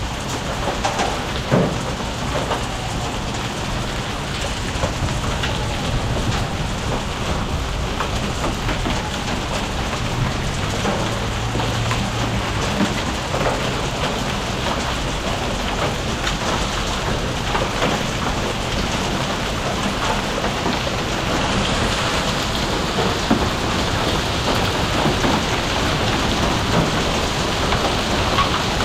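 Heavy rain falling steadily, with many drops ticking sharply on hard surfaces. A brief low rumble comes about a third of the way through.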